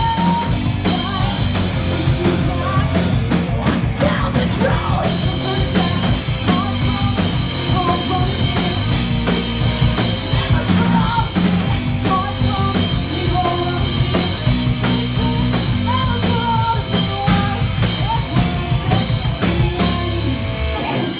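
Metal band playing live, with a drum kit driving the rhythm under bass and a melodic line. The music stops right at the end.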